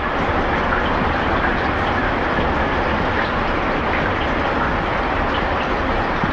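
Ice drift on a river: masses of ice floes moving downstream, grinding and crushing against each other in a steady, dense rumble with faint crackles.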